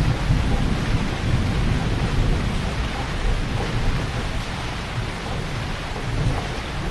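Heavy rain pouring steadily, with a deep low rumble under the hiss that is louder in the first few seconds and eases after.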